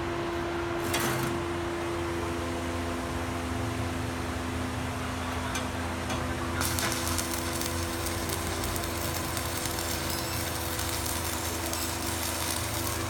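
Electric arc welding: after a brief crackle about a second in, the arc crackles and sizzles steadily from about halfway through, over a steady machine hum.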